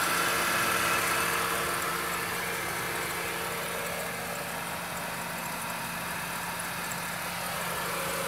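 Mercedes-Benz W203 C-Class engine idling steadily, heard close up in the engine bay beside the crankshaft pulley and accessory belt. A steady higher whine sits over the running engine and fades after about a second and a half.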